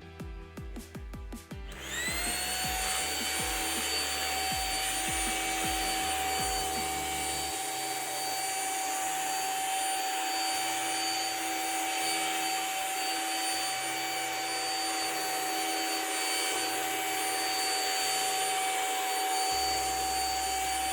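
Deerma CM800 handheld dust mite vacuum switching on about two seconds in. Its motor spins up with a quickly rising whine, then runs steadily with a high whine.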